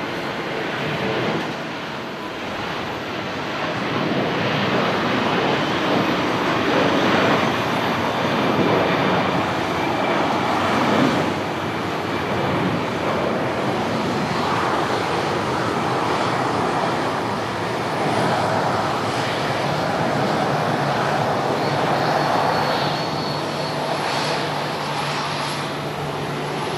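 Airbus A330-300 jet engines at takeoff power: a loud, steady rush of jet noise, with a faint high whine joining in near the end.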